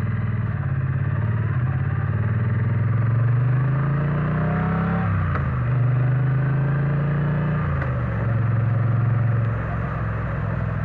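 Triumph Bonneville T100's parallel-twin engine pulling under acceleration, its pitch rising and then dropping sharply about five seconds in as it shifts up. It runs steadily, then falls again near eight seconds as the throttle eases and settles.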